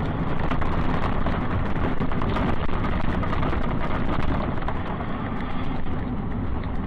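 Steady driving noise of a car, engine and tyres on the road, with no impact.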